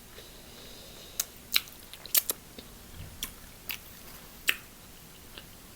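Close-miked eating: a person chewing, with a scattering of short sharp wet mouth clicks and smacks at irregular intervals.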